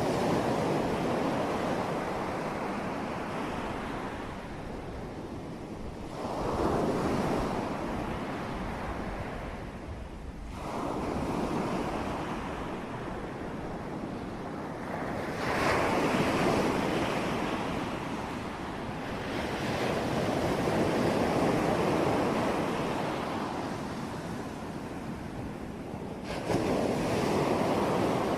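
Sea waves breaking on a shore, a steady wash of surf that swells and recedes every few seconds, with a sharper surge near the end.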